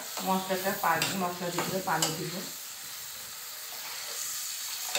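Onion-and-spice masala sizzling in oil in an aluminium karahi as it is stirred with a metal spatula, then a steady sizzle as water is poured in near the end. A voice is heard during the first couple of seconds.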